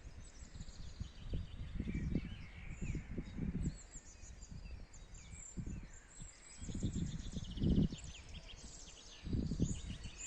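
Small birds chirping and trilling, several calls overlapping, with repeated low gusty rumbles every second or two that are louder than the birdsong.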